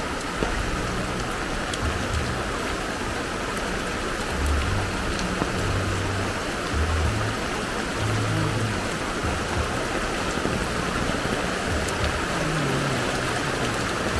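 Heavy rain falling steadily, with low dull thumps now and then.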